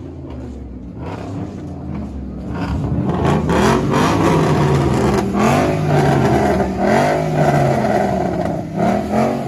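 Car engine revving over and over, its pitch rising and falling with each blip of the throttle, growing louder from about three seconds in.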